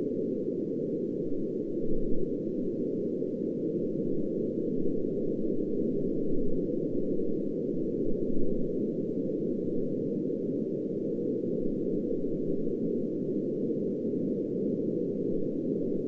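Steady synthetic noise presented as pink noise, its energy held low so that it sounds like a deep, even rush with no tone or rhythm. The level swells slightly a couple of times.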